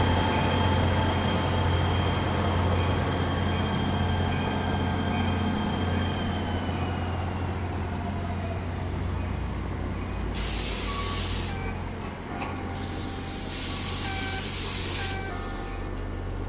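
Passenger train drawing to a stop at a station: a steady low rumble with a high whine that slides down in pitch and fades as it slows, then two loud blasts of air hiss from the air brakes, the second one longer.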